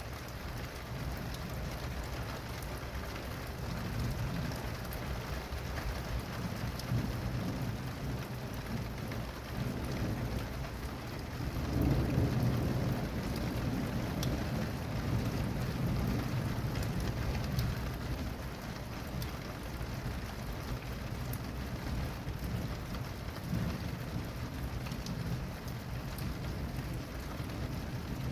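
Steady rain pattering, with a low rumble of thunder that swells about ten seconds in, is loudest a couple of seconds later, and fades over several seconds.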